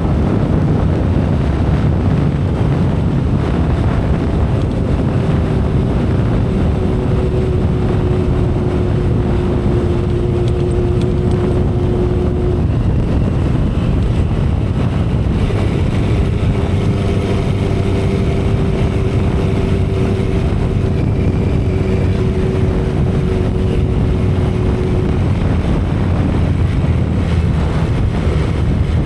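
2012 Kawasaki Ninja ZX-10R's 998 cc inline-four engine running at a steady cruise, heard from the saddle under heavy wind rush on the microphone. The engine note holds an even pitch with no revving or gear changes.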